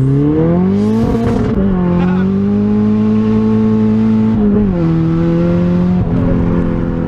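Mazda Miata engine heard from inside the cabin under way, pitch rising early then holding steady, with a short burst of hiss about a second in. About four and a half seconds in the engine note drops in pitch and holds lower.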